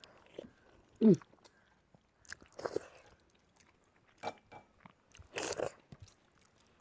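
Close-up eating sounds of people eating rice with dahi bhindi by hand: chewing, mouth clicks and fingers working the food, in scattered short bursts. A brief falling hum comes about a second in.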